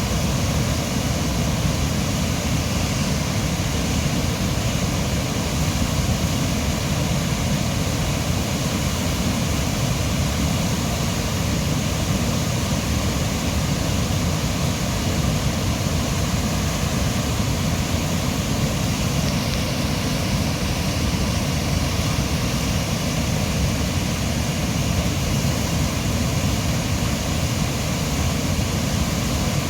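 Isar river in flood, its fast high water rushing in a loud, steady, deep noise that does not change.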